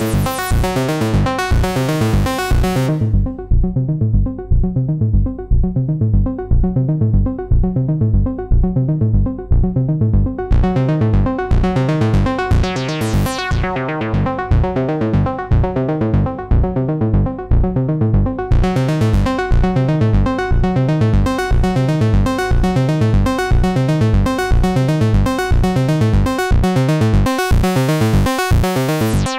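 Waldorf Iridium synthesizer playing an SH-101-style analog patch as a fast repeating sequence of short notes. The tone turns dull for several seconds from about three seconds in, then bright again around eleven seconds and once more from about eighteen seconds on.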